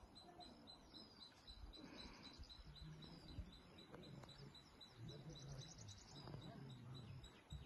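Near silence with faint bird chirps and short trills.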